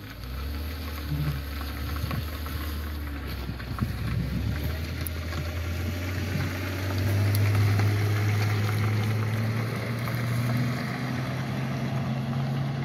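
Vehicle engine running steadily, starting up just after the beginning and rising in pitch about seven seconds in as it speeds up.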